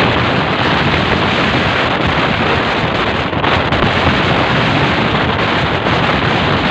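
Rainstorm with fierce wind: a loud, steady rush of rain and wind, with wind buffeting the microphone.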